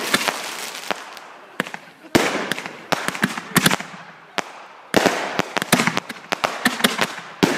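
Aerial fireworks going off: sharp bangs and rapid clusters of cracks and pops, with the densest bursts about two seconds in, around three seconds, and from about five seconds on.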